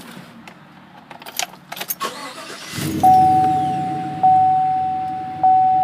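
Clicks and key rattles, then the 2015 Chevy Silverado's 5.3-litre V8 starts and settles into idle, the first start after an oil change. Over it a dashboard warning chime dings about once every 1.2 seconds.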